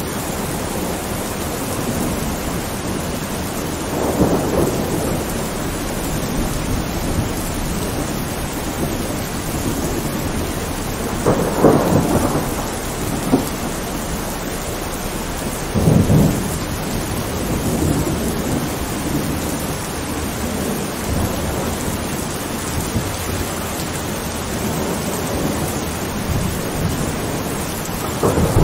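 Steady rain with thunder rumbling several times: swells about four, twelve and sixteen seconds in, and a louder rumble starting right at the end.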